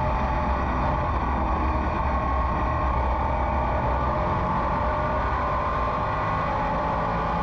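Race car engine running steadily at speed, heard from inside the car.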